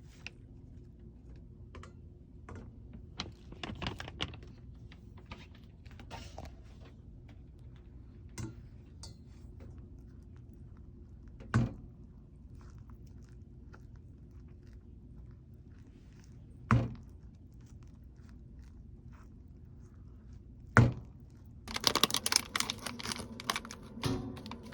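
Objects being handled: scattered soft clicks and knocks, three sharp thuds a few seconds apart, then a burst of rapid clattering near the end.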